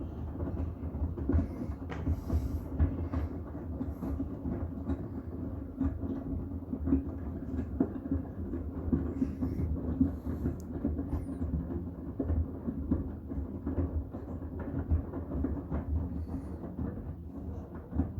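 Miele WCR 870 front-loading washing machine running a load of bath towels on the cotton program: a steady low drum rumble with many small irregular knocks and clicks as the load turns.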